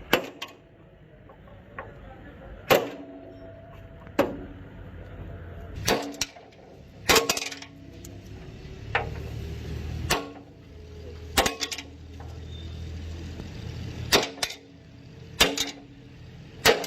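Hammer blows on metal, about a dozen strikes a second or two apart at an uneven pace, each leaving a short ringing tone.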